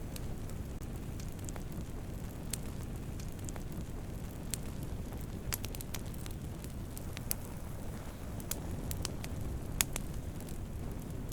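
Wood campfire burning with a steady low rumble of flames and scattered sharp crackles and pops, one louder pop near the end.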